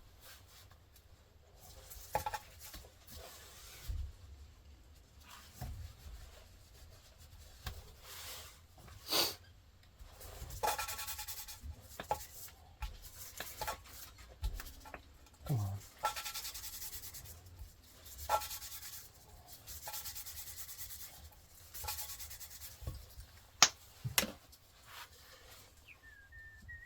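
Irregular hand rubbing and scraping on metal engine parts, in short strokes with pauses, and a sharp click near the end.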